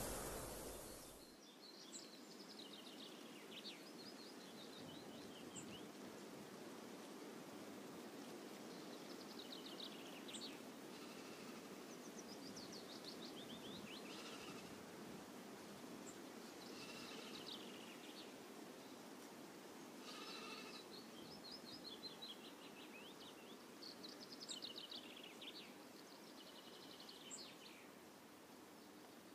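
A loud rushing noise cuts off suddenly about a second in, leaving a faint steady outdoor hiss. Over it, small birds sing short descending trilled phrases every couple of seconds, with a few faint high chirps.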